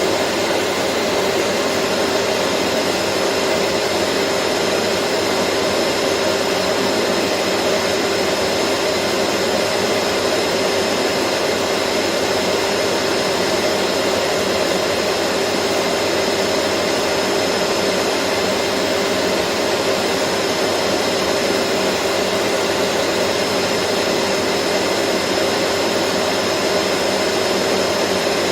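Vacuum cleaner running steadily, an even rushing hiss of air with a constant hum and a faint high whine, never changing.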